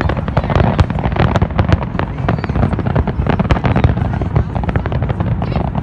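Fireworks display: a dense, continuous stream of sharp cracks and bangs, many a second, over a steady low rumble.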